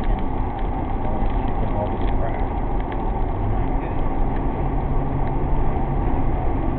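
Steady low rumble of engine and road noise from a vehicle driving, with a faint engine hum for a couple of seconds past the middle.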